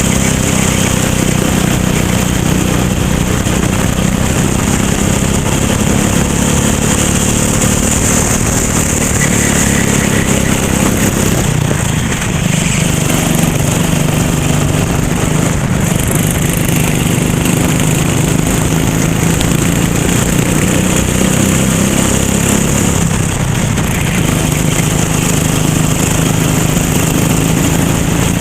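Racing kart engine running hard through a lap, its pitch dipping briefly a few times as it slows for corners, then climbing again.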